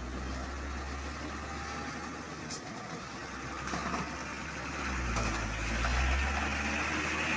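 Diesel truck engine running with a low rumble, growing louder about five seconds in as the truck comes closer.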